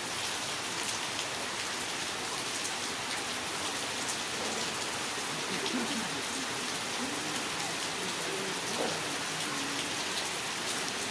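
Heavy rain falling steadily, an even hiss of drops on surfaces; faint wavering pitched sounds are heard through it in the middle.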